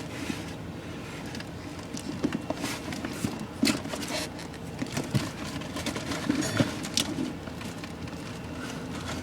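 Samsung 10,200 BTU window air conditioner running with its rotary compressor and fan on, a steady hum. Scattered clicks and knocks sit over it throughout.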